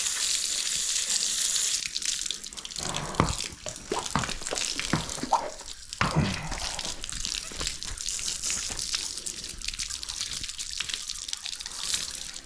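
Water from a hose rinsing a horse down: a steady hiss of spray, then a few seconds of irregular splashing starting about three seconds in, before the spray settles back to a softer hiss.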